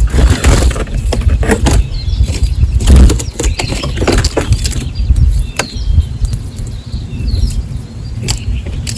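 Small birds at a feeder, wings flapping in quick irregular flurries as they come and go, with a few short chirps. A steady low rumble runs underneath.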